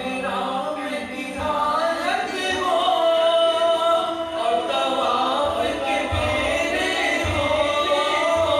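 A male voice sings an Urdu naat with gliding, held notes, drenched in a heavy echo effect and layered with backing voices.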